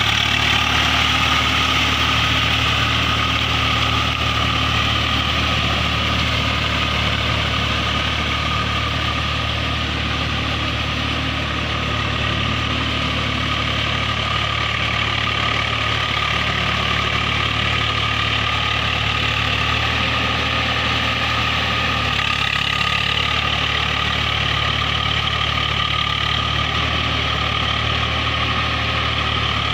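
Tractor's diesel engine running steadily at a constant speed, its note shifting slightly about two-thirds of the way through.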